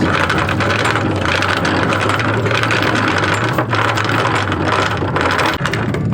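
Anchor chain rattling out over the bow of a sailboat as the anchor is dropped by hand without the windlass, a dense clatter of links over the steady hum of the boat's engine.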